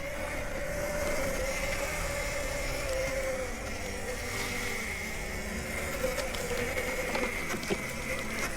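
Nexvey Flash electric dirt bike's motor whining steadily under way, its pitch wavering slightly, over a low rumble, with a couple of sharp knocks near the end.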